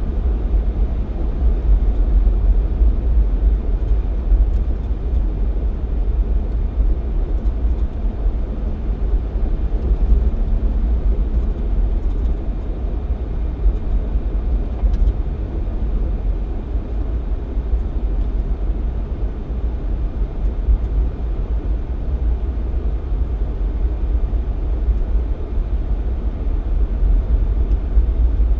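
Jeep Cherokee XJ driving at steady speed: an even low rumble of engine and road noise with no change in pace.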